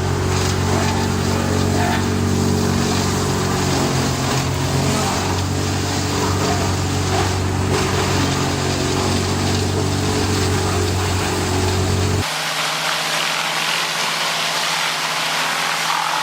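Industrial wood chipper running steadily, its engine's low drone under a noisy hash of shredding. About twelve seconds in the sound cuts abruptly to a hissier noise without the engine drone.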